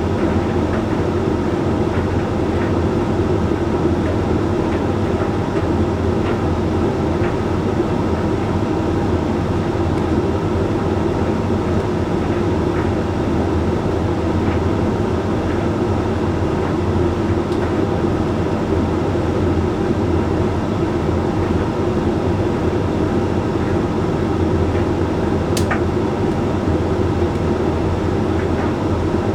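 Hoover Link X Care HLX C10DRGR condenser tumble dryer running mid-cycle: a steady hum of the drum and fan, with faint scattered ticks and one sharp click about three-quarters of the way through.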